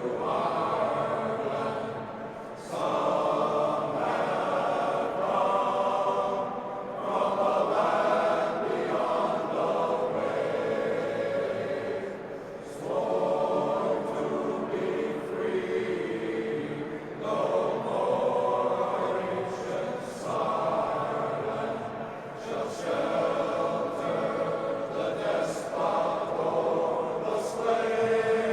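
Men's glee club choir singing together in long, sustained phrases, with brief breaks between phrases every four to five seconds.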